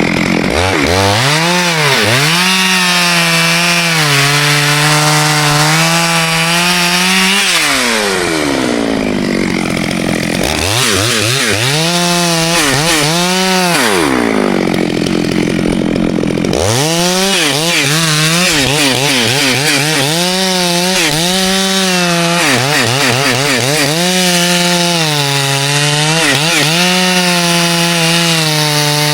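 Chainsaw cutting ash wood: the engine pitch drops and holds under load, revs up freely twice between cuts, and wavers through a long final cut.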